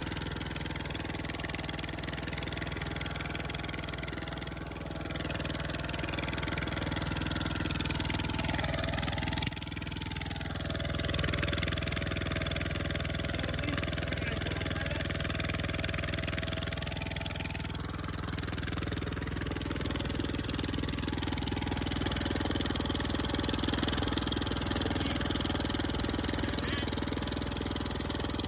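Rebuilt Kohler Courage 20 HP small engine running steadily during its long post-rebuild test run, with a brief dip about nine seconds in.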